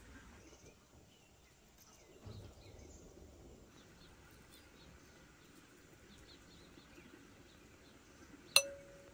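Faint outdoor ambience with scattered bird chirps. Near the end there is a single sharp clink followed by a short, clear ringing tone.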